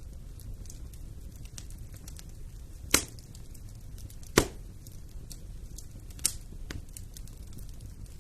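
Wood fire burning in a fireplace: a steady low rumble of flames with scattered small crackles and two loud pops about three and four and a half seconds in, and a smaller one later.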